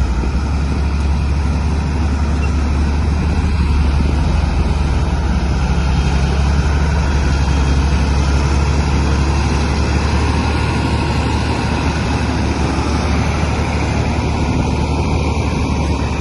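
Heavy diesel engine of a bulldozer running steadily under load, a deep continuous drone.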